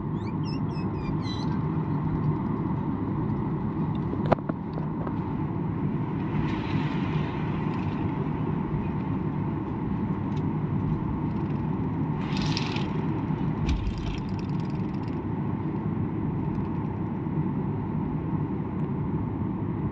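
Steady low rumble of an airliner cabin as the plane taxis: engine and air-system noise. A sharp click comes about four seconds in, and there are two brief hissing rushes.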